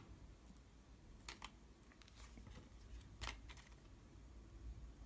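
A few faint, sharp metallic clicks of tweezers picking small pins out of a disassembled pin-tumbler lock core.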